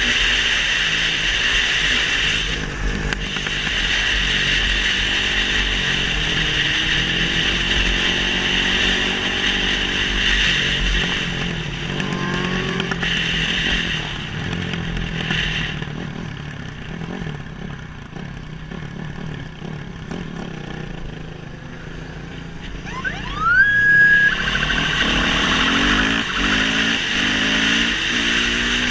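Motorcycle engine running and revving, its pitch repeatedly climbing and dropping as it accelerates and changes gear. A sharp rising rev about 23 seconds in is the loudest moment.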